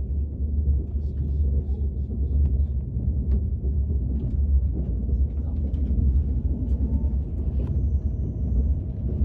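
Steady low rumble of a KTX high-speed train heard from inside the passenger carriage, with faint scattered ticks and clicks over it.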